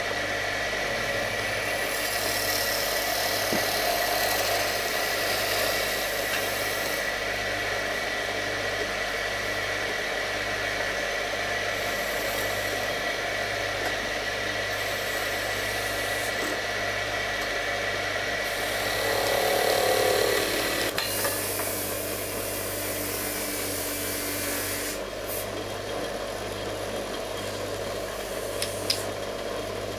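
Wood lathe running steadily while wood is worked on it, a rough rubbing noise over the motor's hum. The high steady tone in the sound drops out about two-thirds of the way through, and there is a single sharp click near the end.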